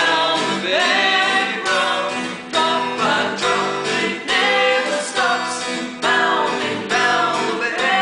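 Acoustic guitar strummed in a steady rhythm, with a singing voice carrying on over it.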